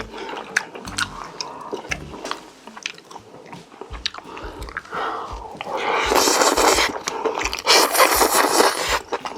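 Close-miked eating sounds: a person biting and chewing food, with many small wet clicks and a steady chewing rhythm, then two louder noisy stretches in the second half.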